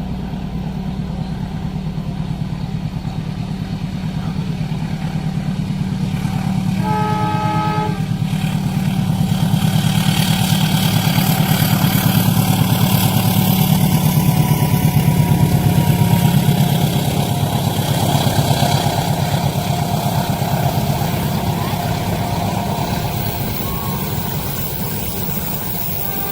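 A train passing a level crossing: a low rumble swells to its loudest about two-thirds of the way through, then fades. A horn gives a short blast about a quarter of the way in.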